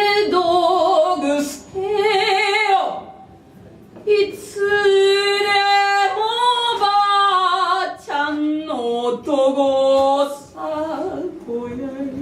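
A woman singing long held notes with a wavering vibrato, with a break about three seconds in, then shorter notes stepping in pitch near the end.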